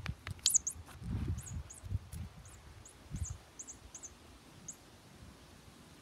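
A dozen or so short, high bird chirps, each a quick downward slide, scattered over the first five seconds. A few sharp knocks and a low rumble come near the start.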